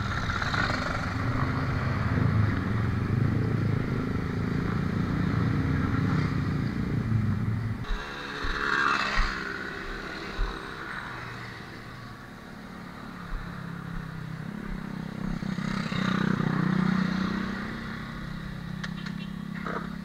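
A Yamaha scooter's engine running while it is ridden, with wind noise, for about eight seconds; then the sound changes abruptly to a quieter roadside mix in which a motorcycle engine swells and fades, with a few sharp clicks near the end.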